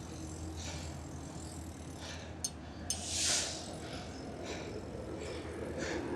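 Diesel commuter train idling at the platform with a steady low rumble. About two and a half seconds in come two sharp clicks, then a short burst of air hiss.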